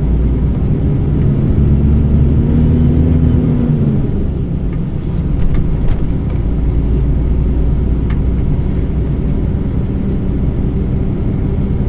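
Heavy truck's diesel engine running on the move, heard from the cab; its pitch climbs for about three seconds as it pulls, then drops back, followed by steady running with a few light clicks.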